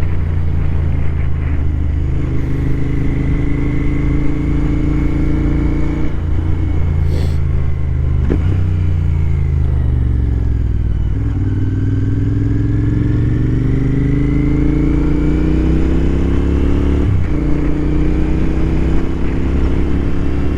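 Royal Enfield Continental GT 650's parallel-twin engine running under way. The revs hold steady, fall off from about eight to eleven seconds in, then climb steadily, with a brief sharp drop about seventeen seconds in before rising again.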